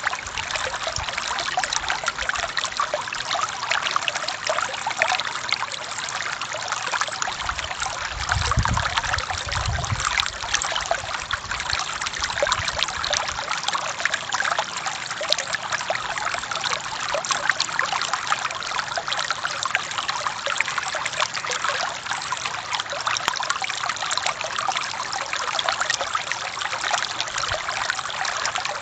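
Forest stream flowing and trickling over rocks, a steady rush of water. A low rumble rises under it for several seconds about a quarter of the way in.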